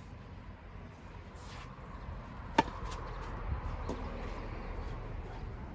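A tennis ball struck by a racket once, a sharp crack with a brief ringing ping about two and a half seconds in, followed by a couple of fainter knocks.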